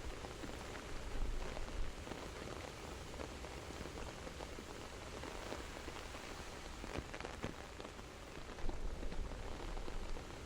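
Steady rain falling, with many small drops tapping through a continuous hiss.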